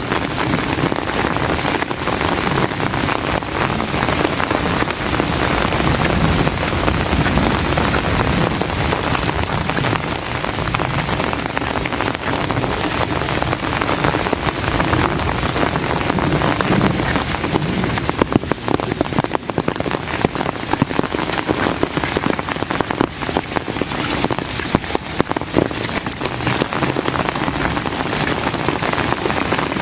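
Heavy rain pouring steadily, with a dense patter of close drop hits that grows more distinct in the second half.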